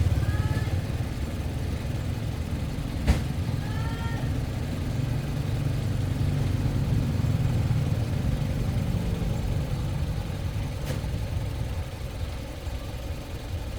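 Motor vehicle running steadily with a low rumble. There is a sharp click about three seconds in, and a few short chirps near the start and again about four seconds in.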